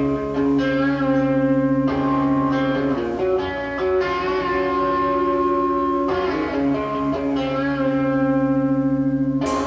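Live instrumental rock band's electric guitar playing held chords and ringing notes that waver in a steady pulse, changing every few seconds. A loud crash comes near the end.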